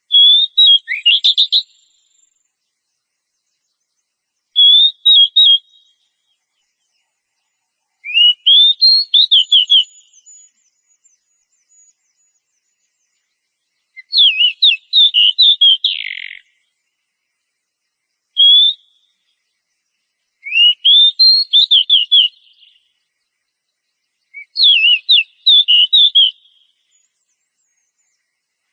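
Oriental magpie-robin (kacer) singing: short phrases of quick, whistled, partly rising notes, about seven of them, each a second or two long and separated by a few seconds of silence.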